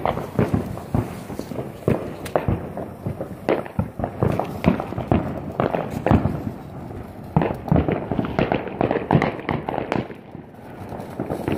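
Fireworks and firecrackers going off in a rapid, irregular string of sharp cracks and bangs.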